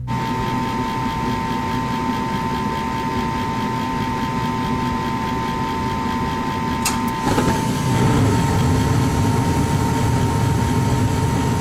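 Freshly repaired residential furnace starting and running on a call for heat: a steady motor hum with a steady whine. About seven seconds in there is a sharp click, and after it a deeper, louder rushing sets in.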